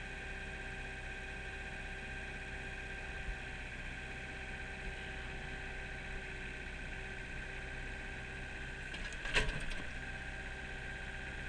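Kubota mini excavator's diesel engine running steadily with a constant whine, and a single clank about nine seconds in.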